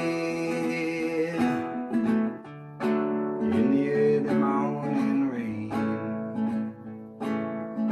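Solo acoustic guitar strummed as folk-song accompaniment, with the tail of a held sung note dying away in the first second or so.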